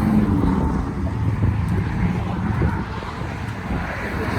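Steady low rumble of passing vehicle traffic, with wind buffeting the microphone.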